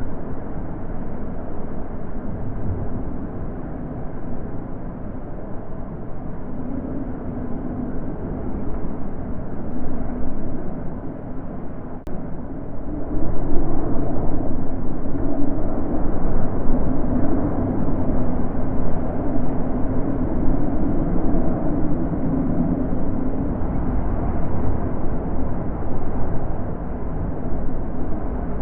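Wind blowing in gusts with a low rumble, swelling and growing louder about halfway through.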